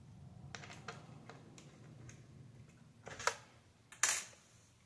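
Scattered small clicks and taps of a screwdriver and screws against the plastic case of an Xbox Series S being taken apart, with two louder sharp clacks near the end.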